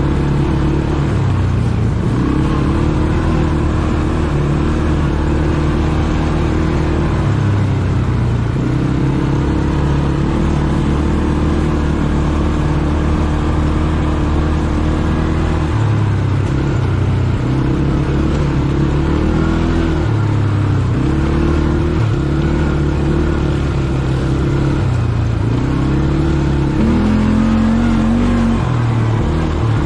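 ATV engine running under way, its pitch rising and falling again and again with the throttle.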